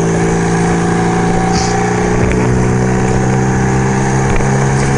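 1975 Kawasaki KZ400 parallel-twin motorcycle engine running at a steady speed while riding, with wind rumbling on the microphone.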